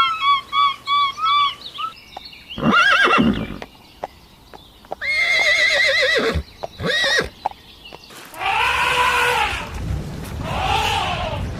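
A bird chirping rapidly at the start, then a horse whinnying twice, the second call long with a trembling pitch. Near the end come two long rising-and-falling cow moos.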